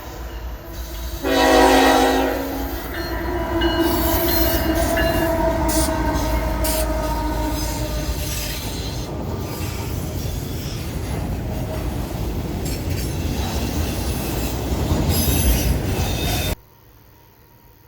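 Diesel locomotive horn blast about a second in, then a train passing close by with a loud steady rumble and wheels squealing. The sound cuts off suddenly near the end.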